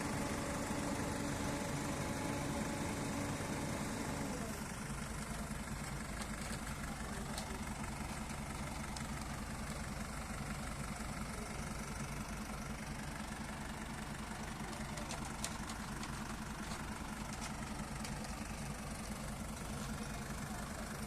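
Heavy diesel engine running steadily. About four and a half seconds in its pitch drops and it settles to a lower, pulsing idle.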